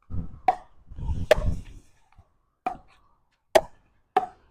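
A ball rally: about five sharp cracks of a ball being struck by racquets and bouncing, spaced roughly a second apart. Gusts of wind rumble on the microphone in the first two seconds.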